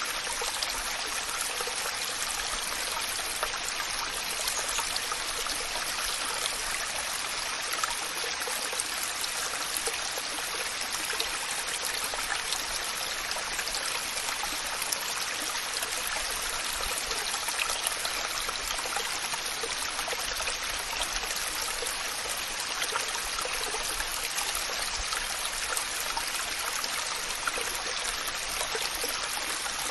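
Waterfall: a steady rush of falling water with fine splashing.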